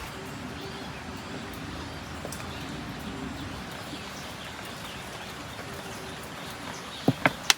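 Steady rain hiss, broken near the end by three sharp knocks in quick succession, about a fifth of a second apart.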